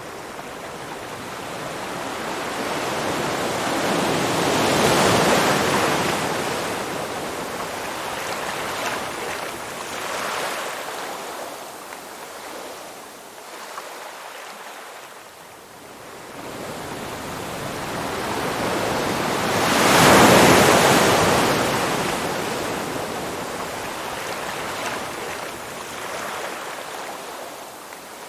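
Ocean waves breaking and washing up a shore in two slow swells, one cresting about five seconds in and a louder one about twenty seconds in, each building up and fading away.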